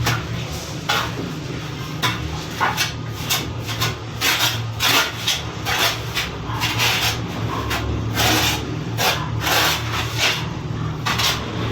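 Repeated, irregular scraping strokes of a trowel working cement mortar for wall tiles, over a steady low hum.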